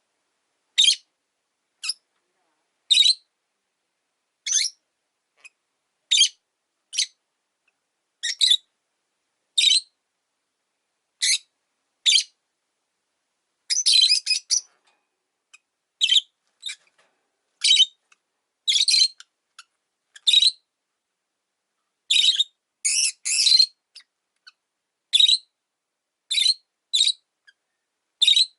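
Rosy-faced lovebirds giving short, shrill chirping calls, roughly one a second, with quick runs of calls about halfway through and again near the end.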